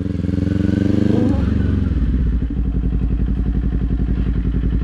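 Motorcycle engine running. About a second and a half in, the higher part of its sound drops away and it settles into a steady, pulsing low idle.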